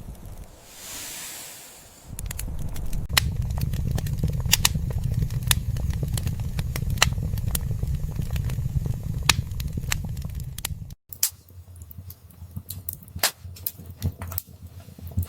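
Wood fire crackling, with frequent sharp pops over a low rumble of the flames. A brief soft hiss comes about a second in, and the rumble cuts off abruptly about eleven seconds in, leaving lighter crackles.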